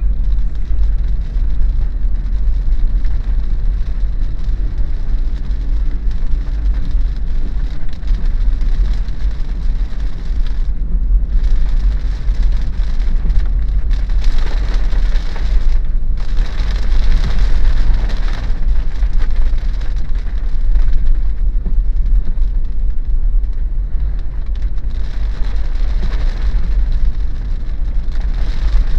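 Rain falling on a moving Daihatsu Terios, over a steady low rumble of the car being driven. The rain hiss swells louder for a few seconds around the middle.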